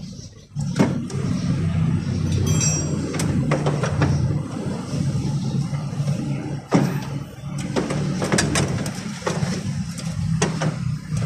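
A motor vehicle engine running steadily, with several sharp clicks and knocks over it.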